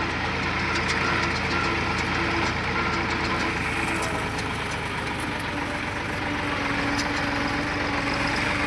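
Deutz-Fahr tractor's diesel engine running steadily.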